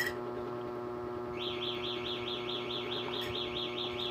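A metal spoon clinks once against a ceramic mug. From about a second in, a small bird chirps in a fast, even trill of rising-and-falling notes, about five a second, over a steady low hum.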